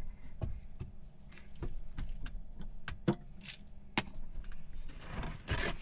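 Scattered light clicks and knocks of seasoning containers and kitchen items being handled, with a brief rustling shake near the end.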